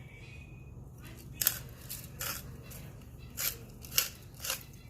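Salt and pepper being sprinkled over small raw potatoes: five short, crisp rasps spread over the last few seconds, over a steady low room hum.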